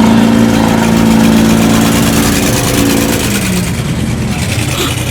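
Mud drag vehicle's engine held at high revs at a steady pitch, fading away after about three and a half seconds.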